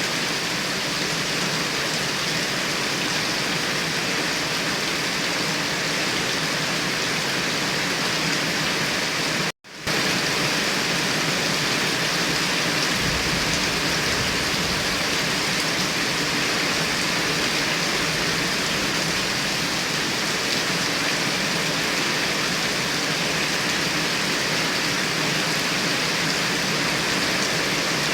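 Heavy rain pouring steadily, a dense even hiss of rain falling on surfaces. The sound cuts out for a split second about nine and a half seconds in.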